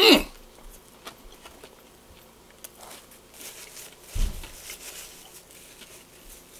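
A man chewing a mouthful of burger, with faint scattered mouth clicks. There is a short rising voice sound right at the start and a brief low hum about four seconds in.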